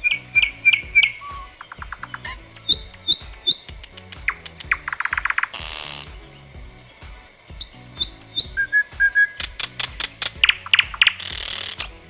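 Nightingale singing in varied phrases of rapid repeated notes and trills, with a harsh rasping note about six seconds in and again near the end. Quiet background music with a low, steady pulse plays underneath.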